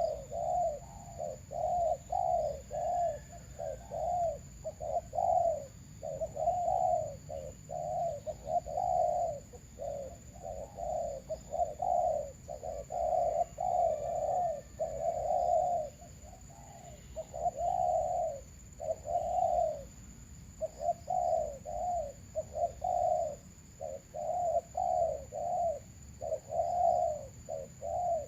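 Doves cooing over and over: short coos in quick runs with brief pauses between runs, typical of decoy doves calling to lure a wild dove.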